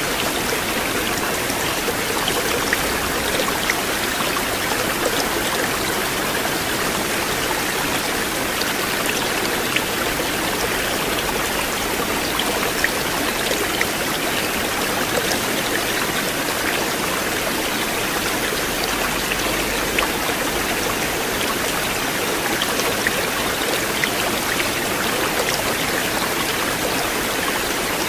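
River water flowing steadily: an even rush with scattered small splashes and drips.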